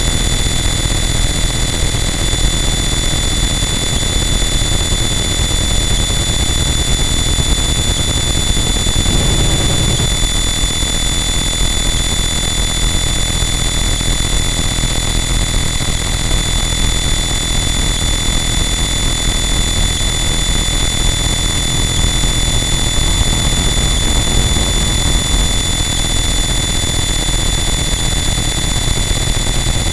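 Harsh noise wall: a loud, unchanging wall of dense distorted noise with steady high-pitched whines running through it. About nine seconds in, the low end thickens briefly for a second or so.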